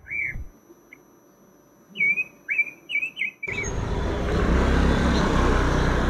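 A bird chirping: one short chirp at the start, then a quick run of about five chirps two to three seconds in. About three and a half seconds in, the sound cuts suddenly to steady street traffic with motorbikes passing.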